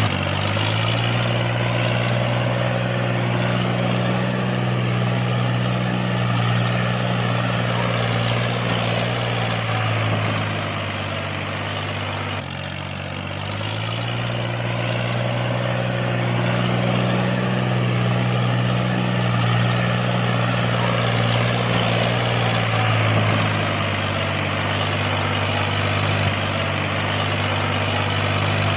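Small electric motor of a DIY model tractor running its rotavator, a steady hum with a whirring hiss on top; its pitch sags and picks back up a couple of times, about halfway through and again near the end.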